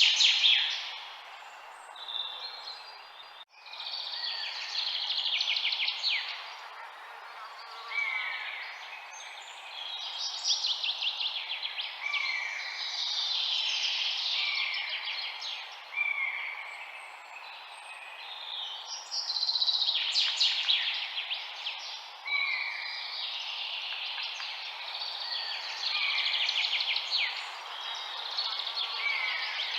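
Several songbirds singing over a steady background hiss: repeated rapid trilling songs and short downward-slurred whistled notes, overlapping one another, with a brief break just over three seconds in.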